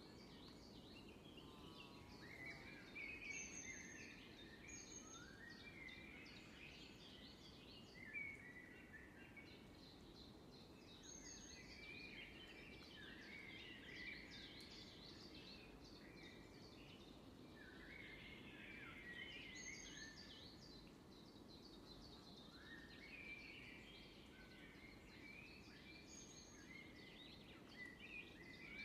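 Faint woodland birdsong: several birds sing overlapping phrases throughout, and a short, very high thin note recurs every few seconds. A steady low background noise runs underneath.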